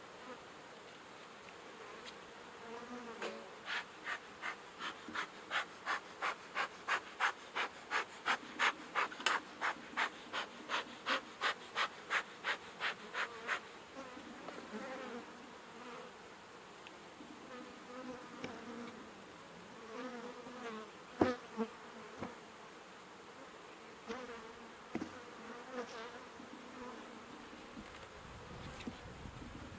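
Honeybees buzzing around an opened Langstroth hive. For about ten seconds there is a run of rhythmic puffs, about two a second, that swell and then fade. Scattered knocks follow, the sharpest about two thirds of the way through.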